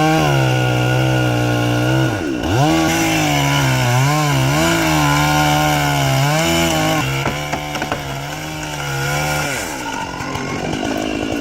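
Chainsaw engine running at high revs. Its pitch dips sharply about two seconds in, wavers up and down through the middle, and falls away near the end.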